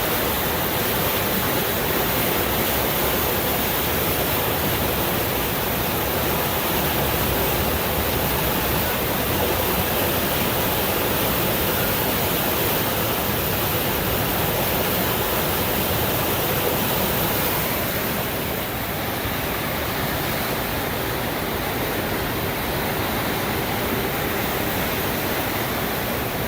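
Little Pigeon River in flood after hours of rain, a steady loud rush of fast white water. About two thirds of the way through it gets slightly quieter and duller.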